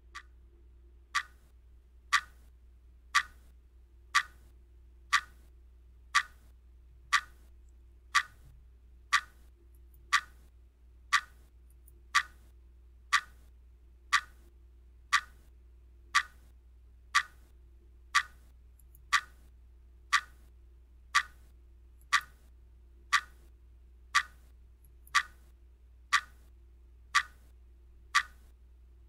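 Countdown timer's clock-tick sound effect, one sharp tick every second, evenly paced.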